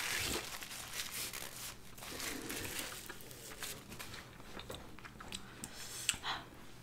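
A person chewing a mouthful of curry close to the microphone, with many soft clicks and smacks of the mouth.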